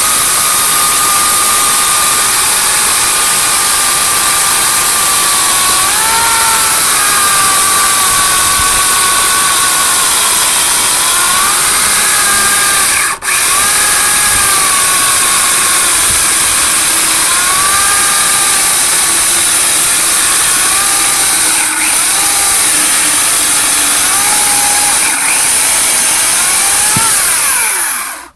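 Harbor Freight 14-inch electric chainsaw cutting through a log of green oak, its motor whine dipping in pitch again and again as the chain bogs in the wood. The motor cuts out for a moment about halfway through and stops near the end.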